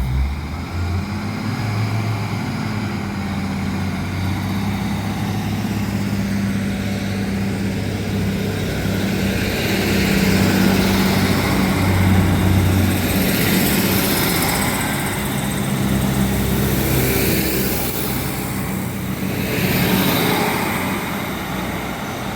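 Class 156 Sprinter diesel multiple unit pulling away from the platform, its Cummins diesel engines running steadily under power, with broader running noise swelling as it moves off.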